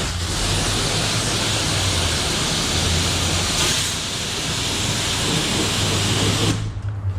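Self-service car wash pressure wand spraying water onto a muddy mountain bike, a steady loud hiss that cuts off about six and a half seconds in, over a low steady hum.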